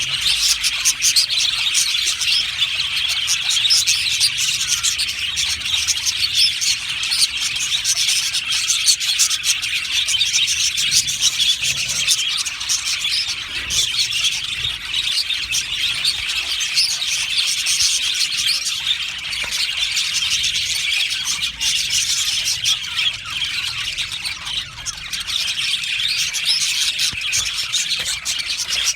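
A colony of budgerigars chirping and chattering continuously, many birds at once in a dense, steady din.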